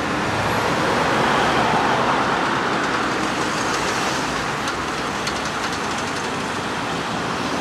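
Road traffic on a main street: a steady noise of passing vehicles' engines and tyres, swelling about a second in and then easing slightly.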